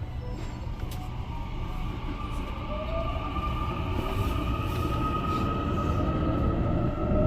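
Toshiba VVVF-IGBT traction inverter and motors of a Seoul Subway Line 8 train, making a soft whine over the running rumble. The tones slowly rise in pitch while the sound grows louder, as the train gathers speed.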